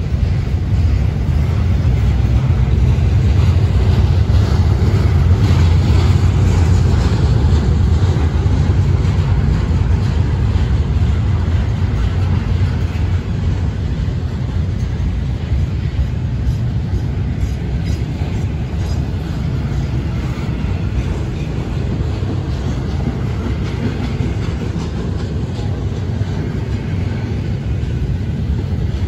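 Florida East Coast Railway intermodal freight train rolling past at steady speed: a continuous low rumble of wheels on rail, loudest a few seconds in and easing slightly later on.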